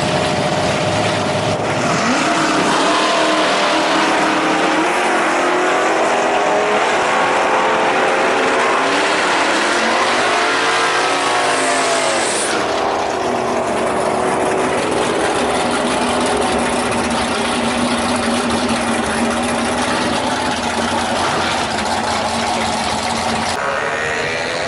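Drag-racing car engine revving and accelerating, its pitch rising and falling several times.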